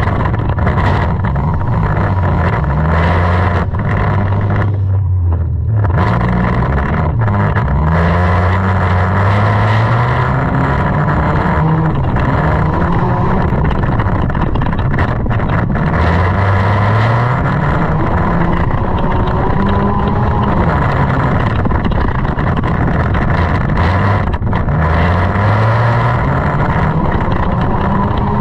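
Junk race car's engine under hard throttle, its pitch climbing and then dropping again several times as it accelerates and lifts, over a steady rushing noise, heard through a GoPro microphone.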